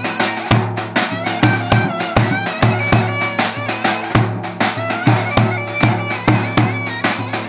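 Live Turkish folk dance music: a reed wind instrument plays a bending melody over a steady low drone and regular drum strikes.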